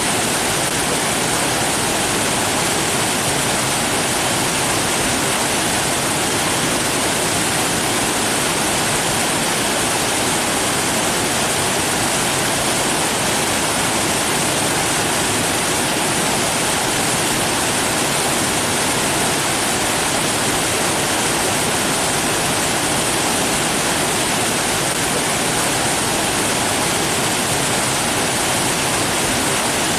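Steady rushing water, an even hiss without change or separate splashes.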